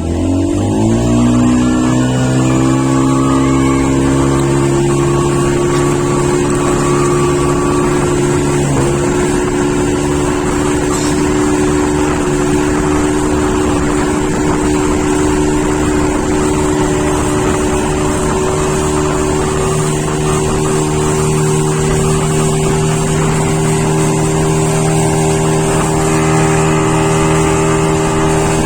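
Motorboat engine speeding up over the first couple of seconds, then running steadily at high speed while towing a banana boat.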